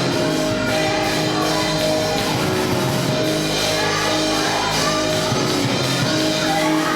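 A live gospel band playing continuously, with held chords.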